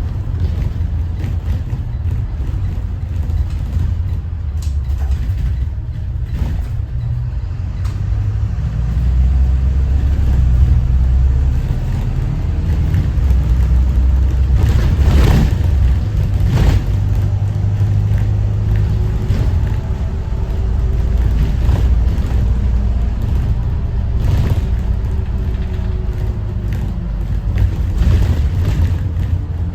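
Thomas Saf-T-Liner C2 school bus driving with its Detroit diesel engine running, a low drone that rises and falls with the throttle. Several sharp knocks and rattles from the bus body come through, and a faint whine glides up and down in the second half.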